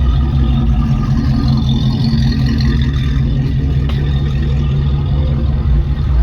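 A vehicle engine running steadily close by, a deep even rumble, with a single click about four seconds in.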